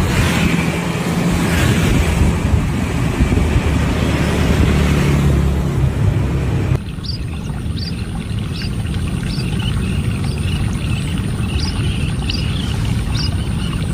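A loud low rumble with a rushing hiss, like wind on the microphone, for the first half. After a sudden cut about seven seconds in, birds give short high downward chirps about once a second over a continuing low rumble.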